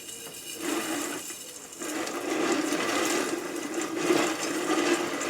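Whirley Pop stovetop popper being hand-cranked, its gears and stirring arm whirring and scraping over unpopped kernels in the pot, before any kernel pops. Weaker with short breaks in the first two seconds, then a steady whir.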